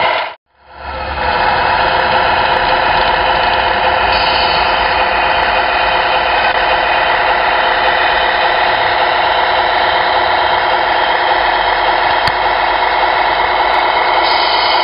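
Sound module of a radio-controlled Scania R620 model truck playing a truck engine sound through its small speaker. It cuts out just after the start, builds back up over about a second, then runs steadily.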